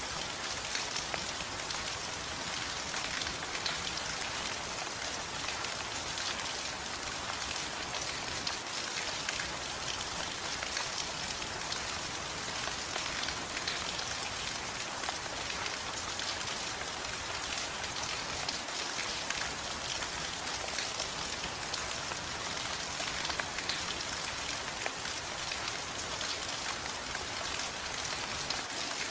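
Steady rain falling on a surface, an even hiss speckled with the patter of individual drops.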